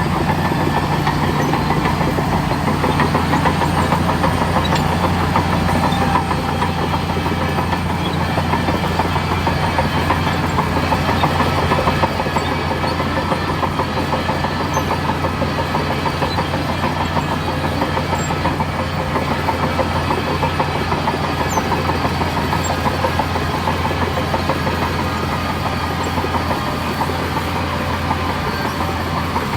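Heavy diesel engine of earthmoving machinery running steadily under load with a fast, even throb, easing slightly about twelve seconds in.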